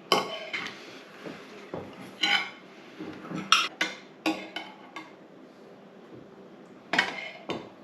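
Serving utensils and cutlery clinking and scraping against plates and a pan: a string of sharp clinks with short ringing, spread irregularly.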